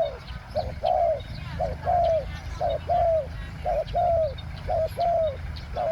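Spotted dove cooing over and over, about once a second: each call is a short note followed by a longer coo that drops at the end. Faint chirps of small birds sound behind it.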